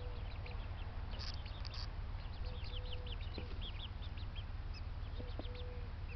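A flock of birds chirping: many short, quick high chirps overlapping throughout, with a few lower drawn-out calls, over a steady low rumble.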